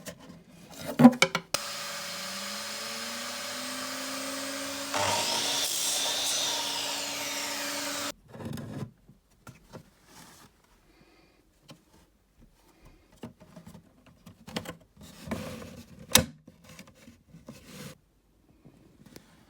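An electric saw spins up with a rising whine and then cuts through wood molding for about three seconds before stopping abruptly. Afterwards, light knocks and rubbing from wooden pieces being handled, with one sharp tap.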